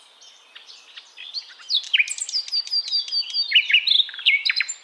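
A songbird singing a fast, varied run of high chirps and quick downward-sweeping whistled notes, getting louder about two seconds in.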